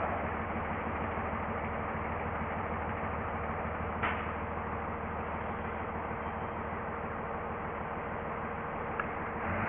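Steady low engine hum, like an idling vehicle, under a constant rushing noise, with two brief clicks, one about four seconds in and one near the end.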